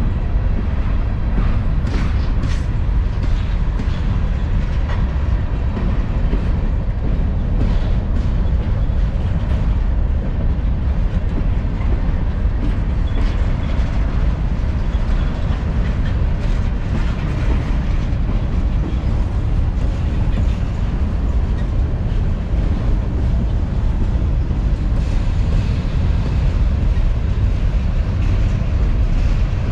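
Freight train cars of a long mixed manifest rolling past steadily: a loud, continuous rumble with scattered sharp clicks from the wheels and couplings.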